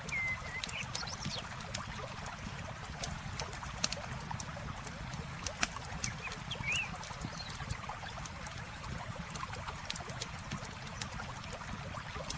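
Campfire crackling with frequent sharp pops over the steady rush of river water.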